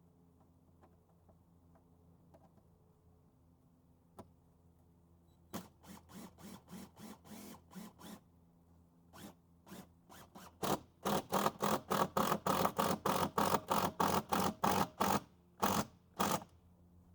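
Hand-tool work on a wooden shed: a run of short, sharp strokes, a few scattered at first, then a fast, loud, regular series of about four a second, with two last strokes near the end.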